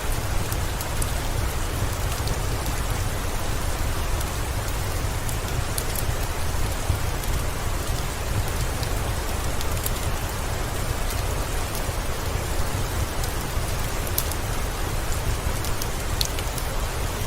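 Steady rain falling, an even hiss with a deep low rumble underneath and scattered faint sharp ticks.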